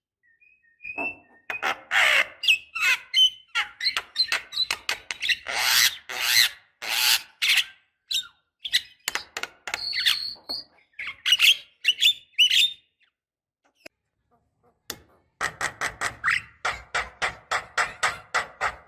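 Javan myna calling: a varied run of harsh, rasping chatter and whistled notes, then after a short pause about two seconds before the end, a rapid series of harsh repeated notes, about five a second. This is the bird's typical call, played as a lure to get captive young mynas to answer.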